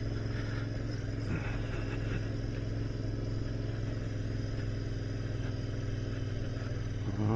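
Royal Enfield Interceptor 650's parallel-twin engine running at a steady cruising speed, heard from the rider's seat. The engine note holds even throughout, with no revving or gear changes.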